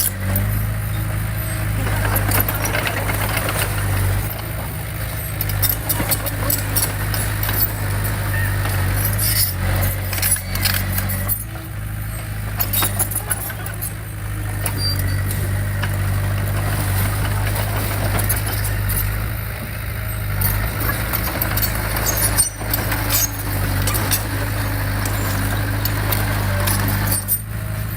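Diesel engine of heavy earthmoving equipment running steadily, with frequent clanks and rattles throughout.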